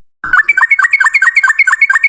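Sooty-headed bulbul (trucukan) singing a fast rattling 'ropel' run of short notes, about eight a second, each note dropping in pitch. The run starts abruptly after a brief silence.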